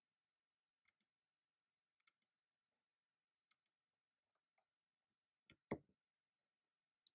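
Keyboard keys pressed now and then rather than steady typing: a few isolated clicks, several in quick pairs, with one louder, deeper knock about five and a half seconds in.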